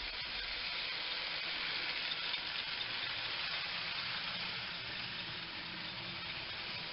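Prewar Marx toy train's electric motor running as the engine travels along the track: a steady, hissing whir that swells slightly a couple of seconds in.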